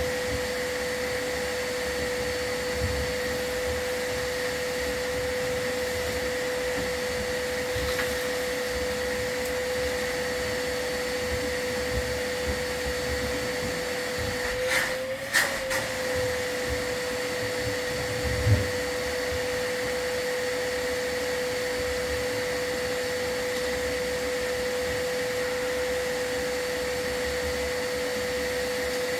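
Soot vacuum running steadily with a constant motor whine, with a brief wobble in pitch and a few knocks around the middle, the loudest about two-thirds in.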